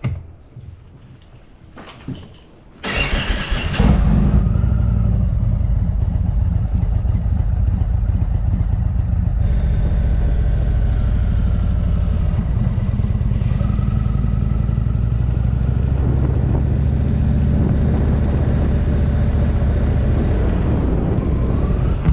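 Motorcycle engine starting about three seconds in, then running steadily at a constant speed.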